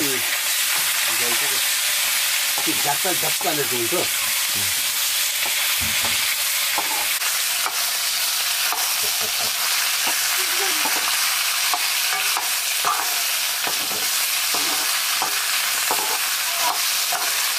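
Sliced vegetables sizzling steadily in oil in a black iron wok as they are stirred with a metal ladle, which scrapes the pan now and then.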